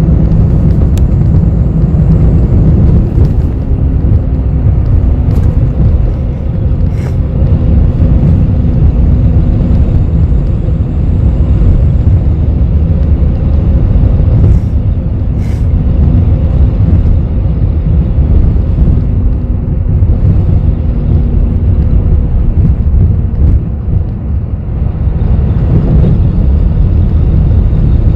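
Cabin noise inside a moving city bus: steady low engine and road rumble with a faint hum, and a few brief rattles or clicks.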